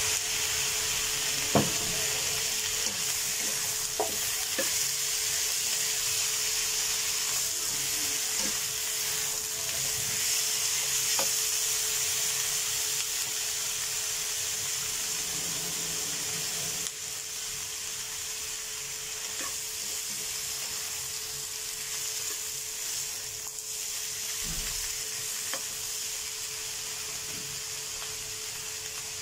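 Chicken wing tips sizzling as they fry in a nonstick pan, with a few light knocks as they are turned with a spatula, the sharpest about a second and a half in. The sizzle eases slightly a little past halfway.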